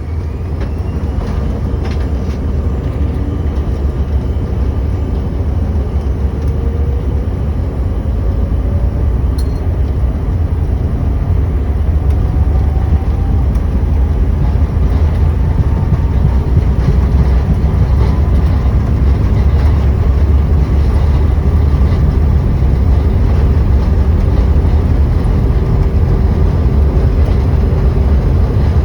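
Cabin noise of a CRJ-900 regional jet during takeoff: a loud low rumble that builds over the first dozen seconds and then holds steady, with a faint whine rising in pitch as it builds.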